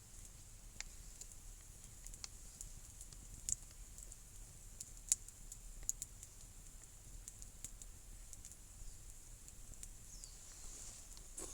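Wood campfire crackling, with sharp irregular pops now and then over a faint steady hiss.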